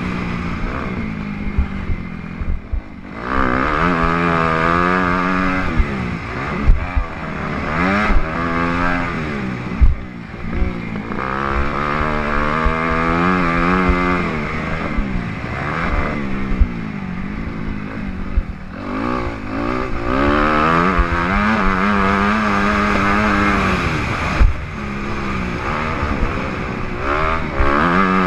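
Motocross dirt bike engine revving, its pitch climbing and dropping over and over as the throttle is opened and closed, with brief lulls and scattered knocks.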